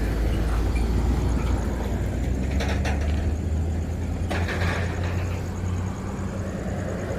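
Car engine idling steadily, with a few short knocks about three and four seconds in.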